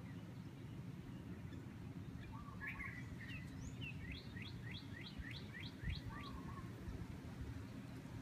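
Songbirds calling: a few short chirps about two and a half seconds in, then one bird repeats a quick run of about eight falling notes, roughly four a second, for about two seconds. A steady low rumble of background noise runs underneath.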